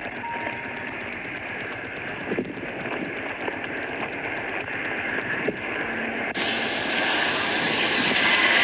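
Steady road noise from vehicles on the move. It grows louder and hissier about six seconds in.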